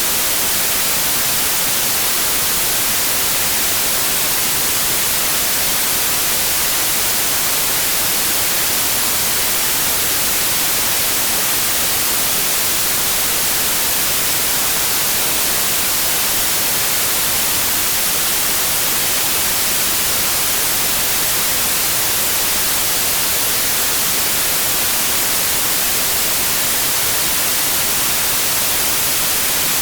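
Steady white noise: a constant, even hiss with the most energy in the treble and no change in level, played as a sleep aid for colicky babies.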